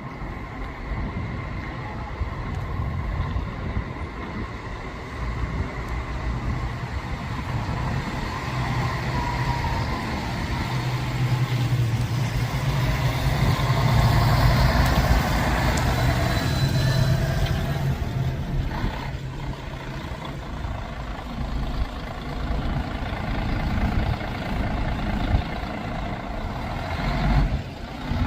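A bus's diesel engine running and building up then easing off, with road noise and a couple of brief knocks.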